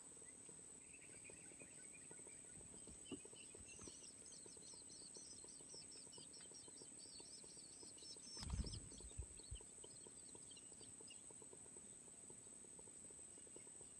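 Faint, rapid high-pitched chirping of long-tailed shrike nestlings begging for food, over a steady high whine. A brief low thump comes about eight and a half seconds in.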